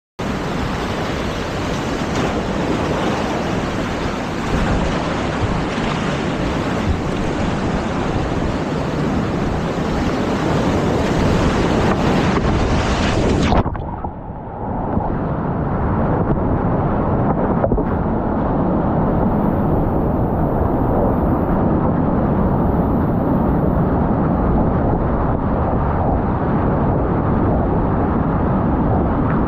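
Continuous rushing and splashing of steep whitewater rapids close to the microphone, with wind buffeting. A little before halfway the sound turns abruptly duller and more muffled, then carries on as a steady rush.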